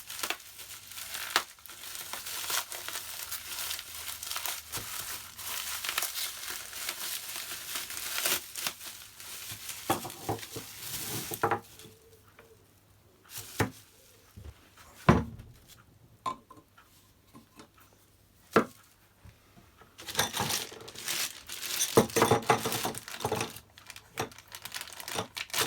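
Packaging crinkling and tearing as parts are unwrapped, with a few separate knocks of parts being handled during a quieter stretch in the middle.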